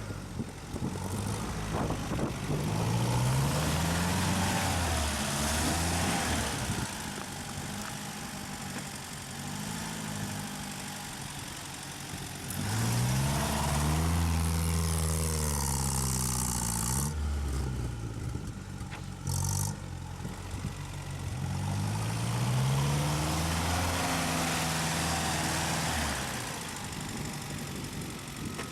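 UAZ 4x4's engine revving hard three times under load on a sand hill climb, each time rising in pitch and then falling back, with lower running between the runs.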